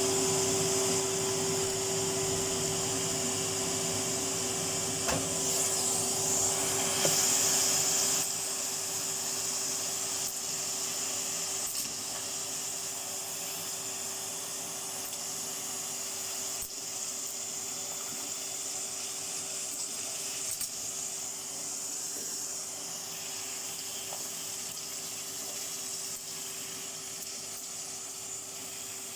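Vacuum cleaner running with a steady whine and hiss, sucking up small metal bits and beads, with a few sharp clicks as pieces are picked up. It is louder for about the first eight seconds, then settles a little quieter.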